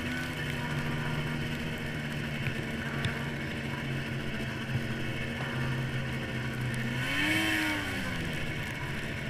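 1998 Arctic Cat SRX 700 snowmobile's two-stroke engine running at a steady speed, then revving up and dropping back about seven seconds in, with a rush of higher noise as it revs.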